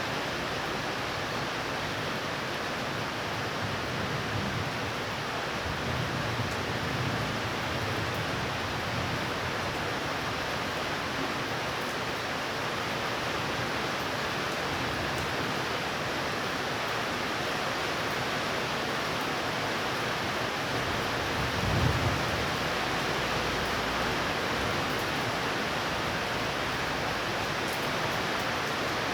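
Steady rain from a thunderstorm, with low rumbles of thunder, the strongest a short one about two-thirds of the way through.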